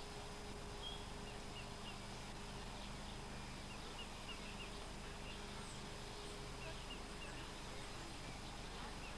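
Small birds chirping now and then, faint, over a steady hiss and low hum.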